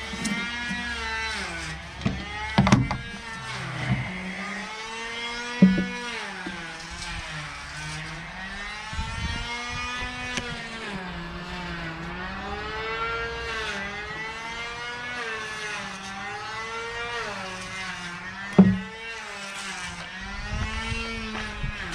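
An electric angle grinder running on sheet metal, its pitch dipping each time it is pressed into the work and rising again as the load comes off. A few sharp metallic knocks stand out, three of them loud.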